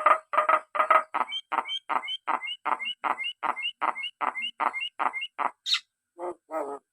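Pet talking myna repeating one short syllable over and over, about four times a second, each with a little rising chirp at its end. Near the end the run breaks into one high squeak, then a few lower calls.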